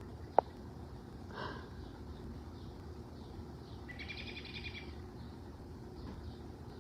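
Quiet background with a bird's trilled call, lasting about a second, starting about four seconds in. There is a single sharp click just after the start.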